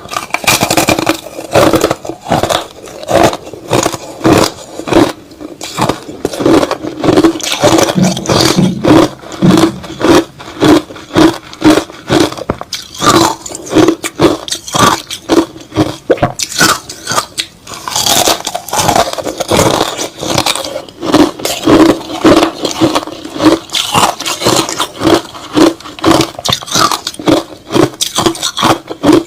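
Close-up chewing of crushed ice slush, a steady run of loud wet crunches at about two a second.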